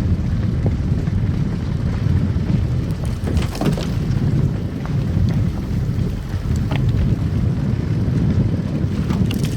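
A car driving on a snow-covered road: a steady low rumble of tyres and engine, with a few brief clicks and crackles.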